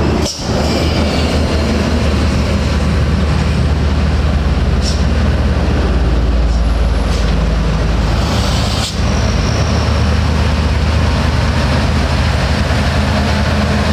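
Heavy diesel truck engine running loud and steady under load on a hill climb, with a brief hiss about nine seconds in.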